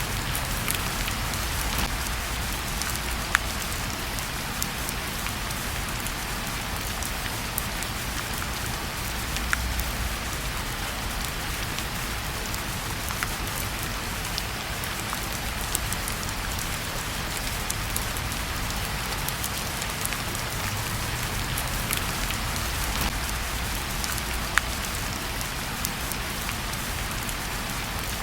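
Steady rain falling, mixed with a wood fire in a fireplace that gives a sharp crackle every few seconds.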